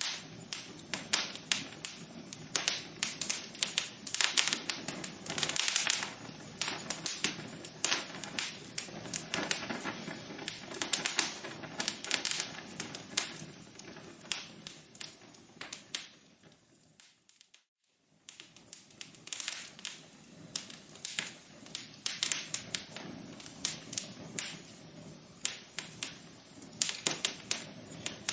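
Wood fire in a fireplace crackling, with dense, irregular sharp pops over a soft hiss. About two-thirds of the way through it briefly fades almost to silence, then the crackling comes back.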